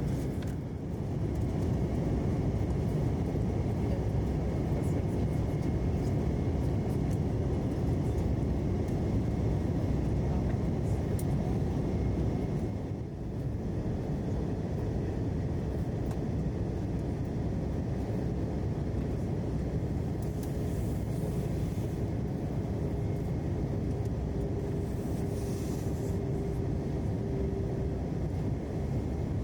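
Steady airliner cabin rumble of an Airbus A321, a dense low roar of engine and airflow noise, with a brief dip about halfway through and a faint steady hum in the second half.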